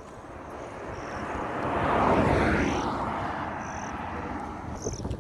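A motor vehicle passing close by on the road. Its noise grows louder to a peak about two seconds in, drops in pitch as it goes by, and then fades away.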